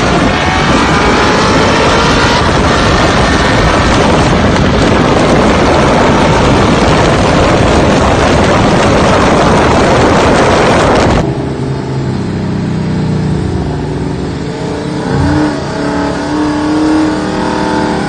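Cars accelerating hard at full throttle in a street race, loud engine noise mixed with rushing wind, cut off abruptly about eleven seconds in. After that, engines running much more quietly at low revs, heard from inside a car.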